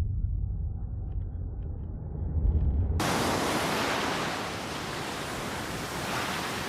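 A deep rumble dying away, then a hard cut about three seconds in to a steady rushing of water.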